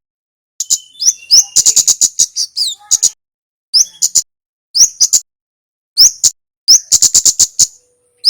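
Kemade (kemlade) songbird singing in quick bursts of sharp, high chip notes, some sweeping upward, with short pauses between the bursts.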